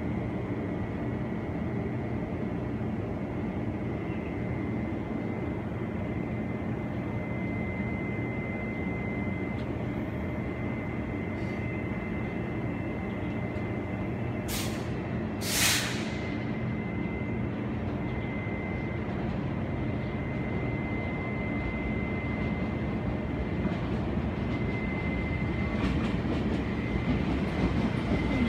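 Taiwan Railways EMU800 electric commuter train approaching and pulling into a station: a steady low rumble with a thin high whine over it, two short sharp hissing blasts about halfway through, and the wheels getting louder and clacking as the train draws alongside near the end.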